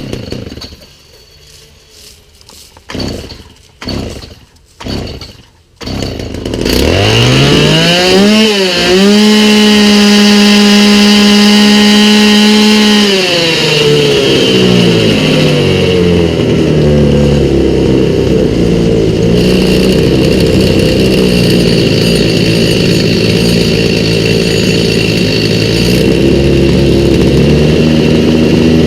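Stihl MS290 two-stroke chainsaw being pull-started with a few yanks. It catches about six seconds in and is revved to full throttle for about four seconds, then drops back to a slightly wavering idle that keeps running. The new aftermarket carburetor's mixture screws are set 1 1/4 turns out on the low-speed screw and 1 turn out on the high-speed screw.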